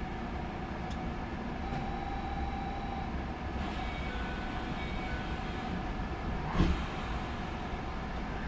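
Sanyo Railway 6000 series electric train standing at a station, heard from the cab: a steady hum and rumble from the train's equipment, with faint short tones a little past halfway and a single brief thump about two-thirds of the way through.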